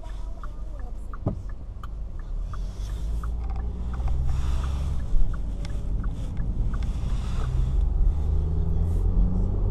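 A 2018 Kia Forte S's 2.0-litre four-cylinder engine, heard from inside the cabin, pulling away from a stop and accelerating. Its pitch rises and drops back as the six-speed automatic upshifts. The turn signal ticks at about two a second through most of it.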